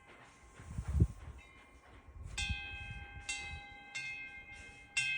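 A metal wind chime ringing: clear bell tones struck several times from a little over two seconds in, each new strike sharp and the tones ringing on and overlapping. A low rumble comes about a second in.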